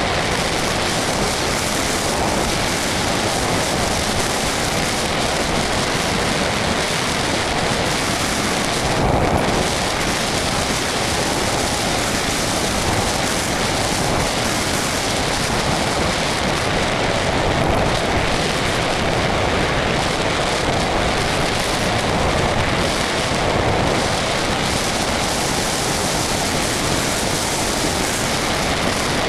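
Steady rushing wind noise from air streaming over the microphone of a small onboard camera on an RC model plane in flight, a dense, even hiss with no breaks.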